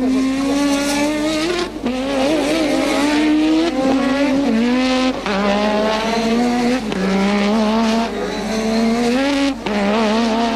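Turbocharged 1.5-litre Formula One engine at high revs. Its pitch climbs steadily, then drops sharply at each gear change, about six times.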